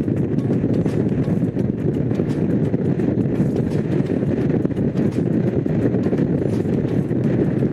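Honda CX500's V-twin engine running at a steady cruise while riding, with wind rushing over the microphone.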